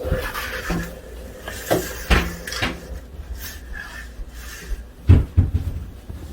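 Kitchen clatter: a series of knocks and thumps from cupboard doors and mugs being handled, the loudest a pair of thumps about five seconds in.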